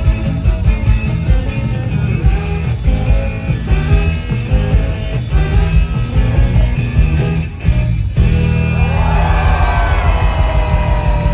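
Live rock band playing loud, with a driving bass-and-drum beat. About eight seconds in the beat breaks off and the band moves into long held notes, with guitar notes bending in pitch over a sustained low chord, like a song's drawn-out ending.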